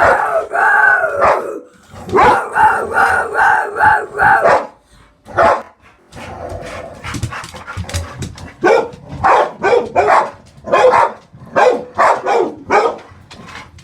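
Dogs barking and howling: a drawn-out howl at the start, a run of quick yaps, then a string of short separate barks about twice a second.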